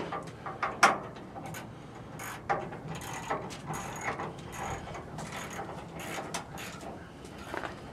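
Irregular mechanical clicking and rattling, a run of short clicks and knocks with no steady rhythm.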